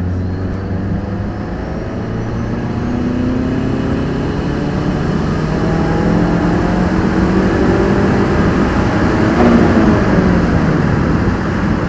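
Turbocharged Honda K-series engine pulling hard in third gear, heard from inside the cabin, its note rising steadily as boost builds, with a faint high whine rising alongside. About nine and a half seconds in, the revs drop away.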